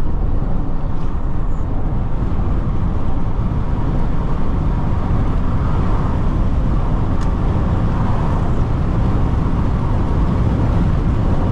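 Steady cabin noise inside a Jeep Renegade diesel SUV at highway speed: a low, even rumble of tyres on the road and engine drone, with no change through the stretch.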